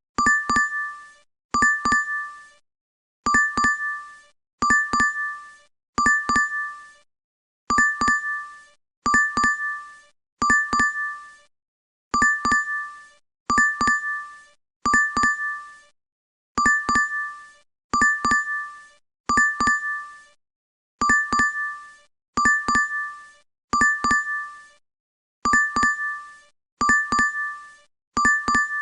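DoorDash app notification chime repeating over and over. Each chime is a quick run of bright two-tone dings, and they come in sets of three about a second and a half apart, with a short pause between sets.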